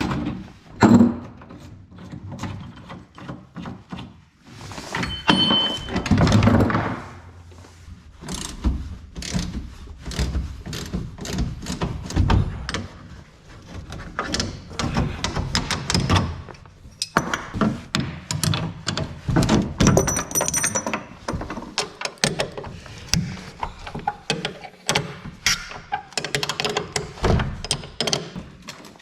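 Irregular clunks, knocks and rattles of metal hardware being unscrewed and pulled off as a tonneau cover is taken off a pickup truck bed.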